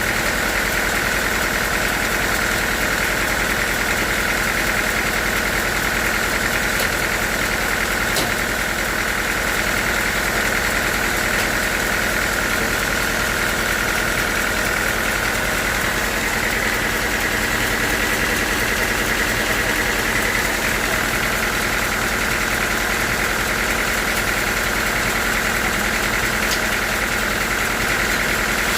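Sawmill machinery running steadily, with a constant high whine that shifts a little in pitch about halfway through.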